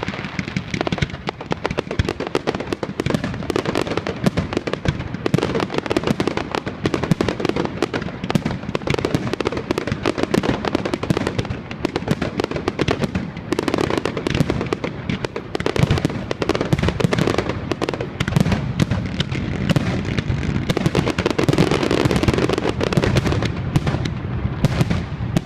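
Fireworks display at its height: a dense, continuous barrage of bangs and crackling bursts, with heavier booms in the middle and near the end.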